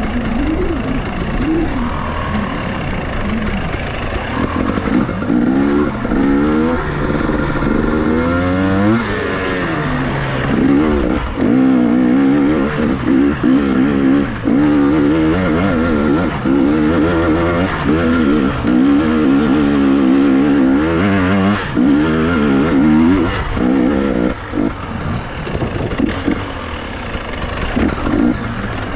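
KTM two-stroke enduro motorcycle engine being ridden hard off-road, its pitch rising and falling over and over with throttle and gear changes. The revving is busiest from about five seconds in until near the end.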